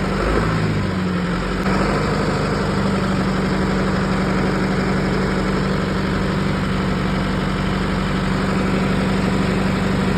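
John Deere tractor engine running at a steady, even speed as the tractor moves slowly, with a brief change in pitch in the first second or so.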